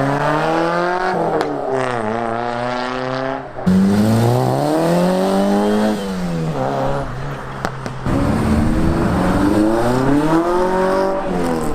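Car engines accelerating away one after another, revving up and dropping back several times as they pull off and change gear.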